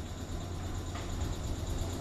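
Low, steady rumble of an approaching electric train, slowly growing louder as it nears.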